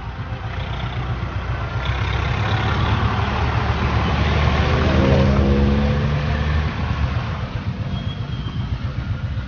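Motor vehicle engines in street traffic, with one engine rising in pitch as it accelerates about halfway through, then easing off.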